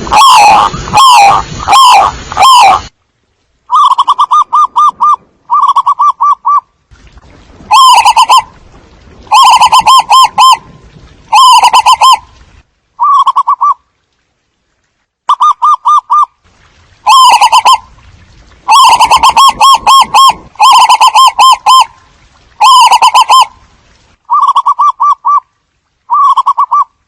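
Zebra doves cooing: loud, repeated short phrases of rapid staccato notes, each phrase about a second long, with pauses between them.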